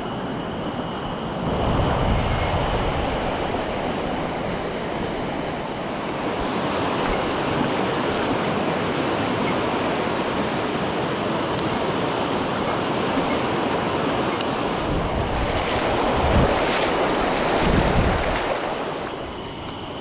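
Rushing water of a mountain stream, a steady dense hiss, swelling louder with low rumbling around two seconds in and again near the end.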